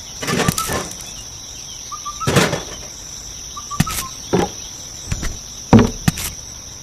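Steady high cricket-like chirring, with light knocks and taps at irregular moments, about eight in all, the sharpest near the end.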